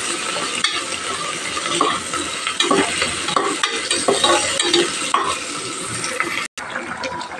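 Sliced onions, coriander leaves and whole spices sizzling in ghee in an aluminium pressure cooker, stirred with a slotted steel spoon in repeated scraping strokes against the pot. The sound cuts out for a moment near the end.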